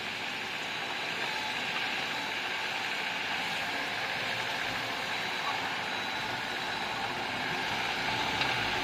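Bulldozer working, its engine running and tracks clanking in a steady, even mechanical noise.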